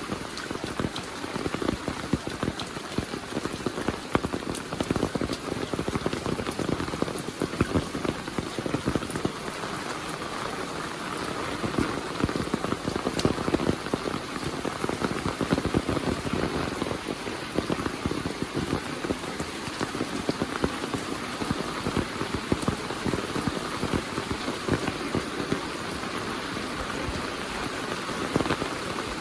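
Heavy monsoon rain falling steadily, a dense patter of drops hitting nearby surfaces.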